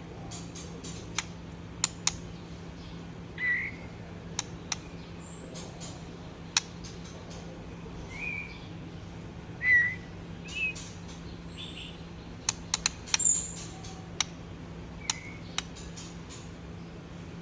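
Baby birds giving short, scattered chirps a few seconds apart, mixed with sharp clicks and ticks, over a steady low hum.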